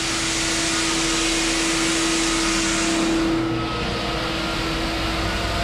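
Floor sanding machine running steadily on a hardwood floor, a loud even hiss with a held hum. About three seconds in the hiss drops away and a deeper rumble takes over.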